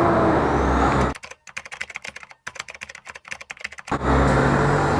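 A motorcycle engine running steadily at idle. About a second in it drops out for nearly three seconds, replaced by a rapid, irregular run of clicks and crackles, then it comes back.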